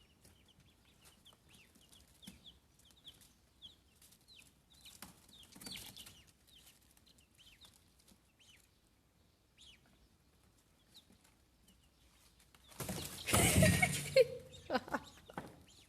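Chicks peeping: many faint, short, high downward chirps. About thirteen seconds in, a loud burst of rustling noise lasting a second or two, with a short lower note near its end.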